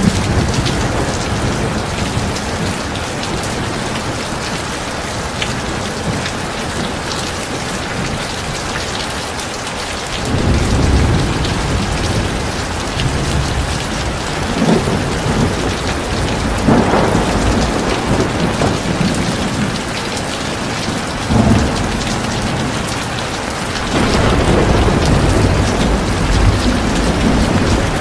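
Heavy rain falling steadily, with low rumbles of thunder rolling in several times, the heaviest starting about 24 seconds in.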